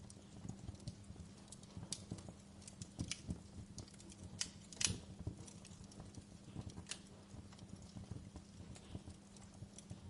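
Campfire burning, the wood crackling and popping irregularly, with one louder pop a little before the middle.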